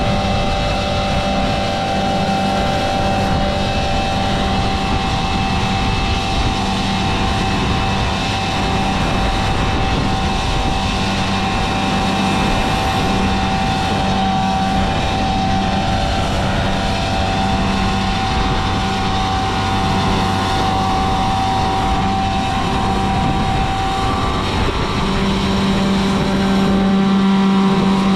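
Tractor engine running steadily at a constant speed, with an even hum and a pulsing low tone.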